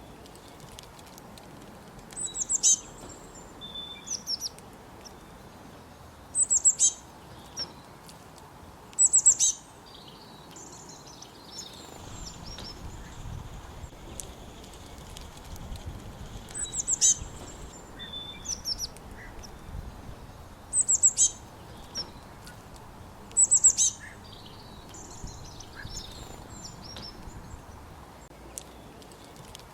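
Birds chirping: short, high calls repeated every few seconds over a faint steady background.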